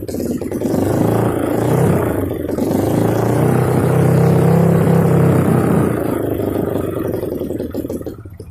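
Trail motorcycle's 200cc single-cylinder engine revving through an Over Racing aftermarket exhaust. It blips a couple of times, holds high revs through the middle, then drops back over the last couple of seconds.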